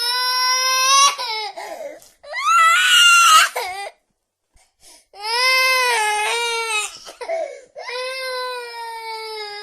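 Baby crying: four long wails in a row with short breaths between them.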